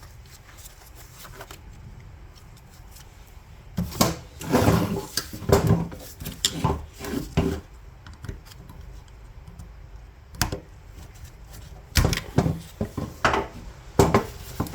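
Fuel pump assembly parts being handled, clicking and knocking against each other in irregular clusters that start about four seconds in and come again near the end.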